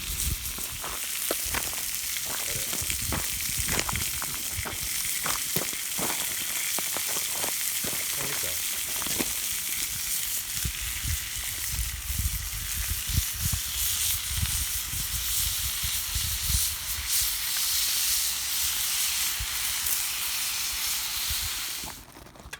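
Food sizzling and frying in a pan over a campfire, a steady hiss with many small spitting pops in the first half. The sizzle cuts off suddenly near the end.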